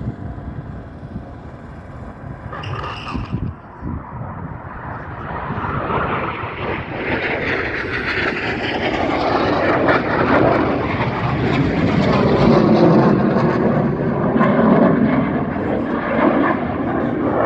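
Red Arrows BAE Hawk T1 jets passing, their jet engines swelling from a low rumble into a loud, wavering roar about five seconds in and staying loud.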